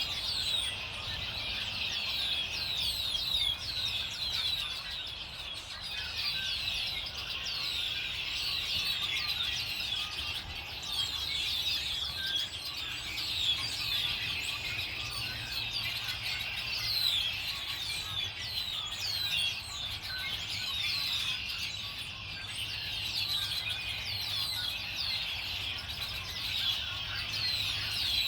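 Many small birds chirping and calling at once in a dense, overlapping chorus of quick downward-sweeping chirps, over a faint low hum.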